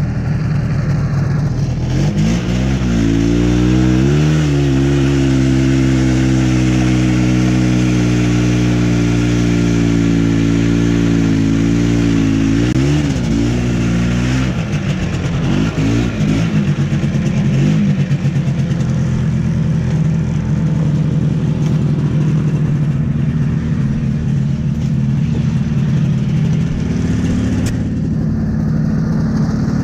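Two-stroke snowmobile engine revving up about two seconds in and held at a steady high speed. It is blipped a few times around halfway, then drops back to a lower, steady running speed.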